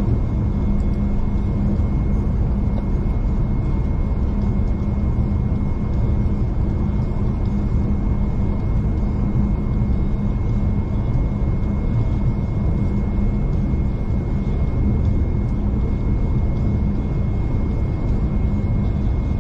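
V/Line passenger train running along the line, heard from inside the carriage: a steady low rumble with a constant hum and a thin high whine.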